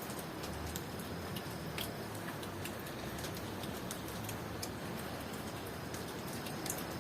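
Steady rain falling, with many separate drops ticking sharply on a hard surface, and a faint high, steady cricket trill in the background.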